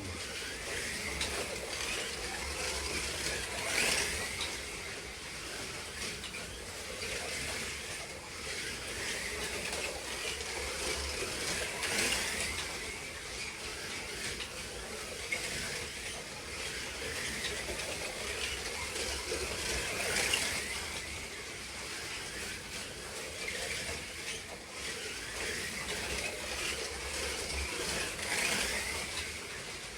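1/32 slot cars racing on a track: the whine of their small electric motors and the hiss of tyres and guides in the slot, swelling each time the cars pass close, about every eight seconds.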